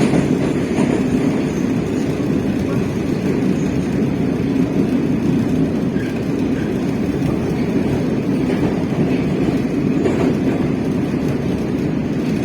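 Moscow Metro train running between stations, heard from inside the carriage: a steady rumble of wheels on rails, with a few faint clicks.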